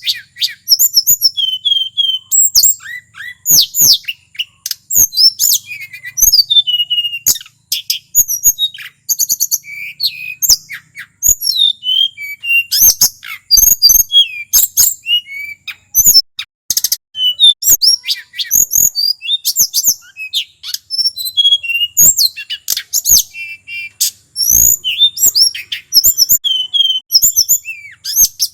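Male tledekan gunung singing continuously: a rapid, varied run of sharp whistled notes, sliding phrases and chattering trills with only brief pauses.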